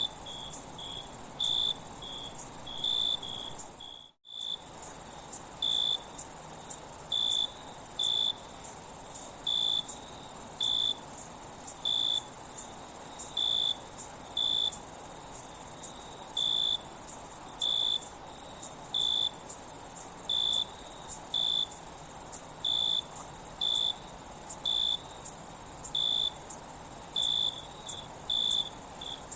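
Night chorus of crickets: a steady high-pitched trill with a second, lower cricket chirping in short pulses about once a second. The sound cuts out for a moment about four seconds in.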